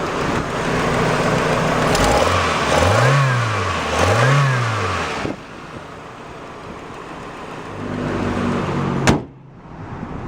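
1992 Nissan Stanza's 2.4-litre four-cylinder engine running, revved twice in quick succession, each rev rising and falling back to idle. A sharp thump near the end.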